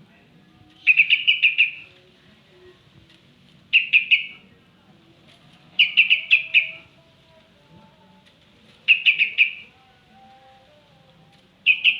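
Yellow-vented bulbul (trucukan) calling: five short bursts of rapid chattering notes, each under a second long and spaced a few seconds apart.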